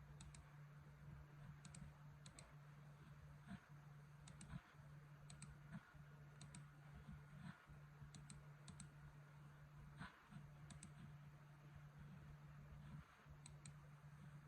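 Faint, irregular light clicks, some in quick pairs, over a steady low hum.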